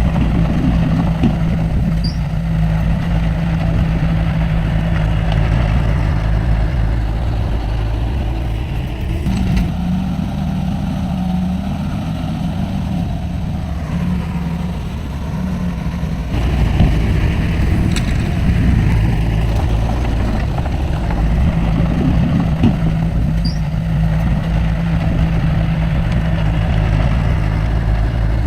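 Heavy diesel engine of earthmoving machinery running continuously, its engine note changing as the load shifts, about a third of the way in and again a little past halfway.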